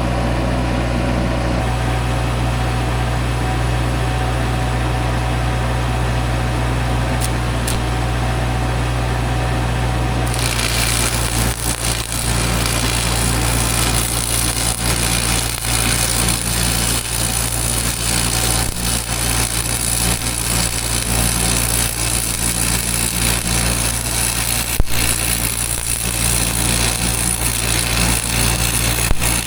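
An engine runs steadily with a low hum. About a third of the way in, a dense crackling hiss starts and carries on: a welding arc laying weld to build up a cracked boom pin area on a log processor.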